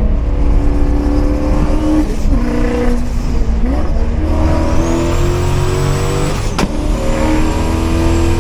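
Turbocharged Gen 2 Coyote 5.0 V8 in a 2015 Mustang at full throttle through the gears: the engine note climbs, drops at each quick manual upshift, about three times, and climbs again. A sharp crack comes at the last shift. A high turbo whistle rises in during the second half.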